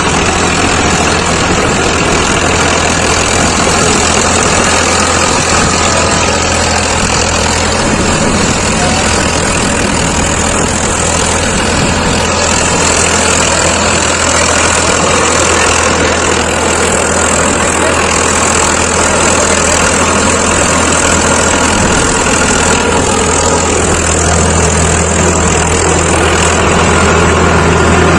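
Farm tractor diesel engines running loudly and steadily, with a deep constant drone, growing slightly louder near the end.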